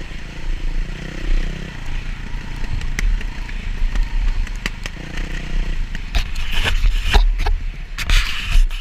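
Dirt bike engine running under a heavy low rumble, with clattering and scraping knocks coming thick and fast over the last few seconds.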